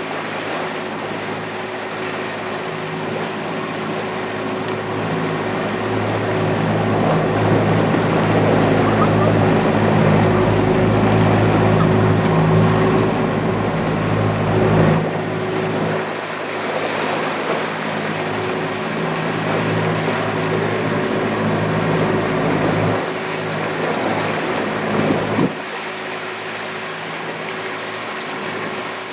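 Boat's engine running steadily under a broad hiss of water and wind, heard from on board; it grows louder through the middle and drops back with a few abrupt changes in level.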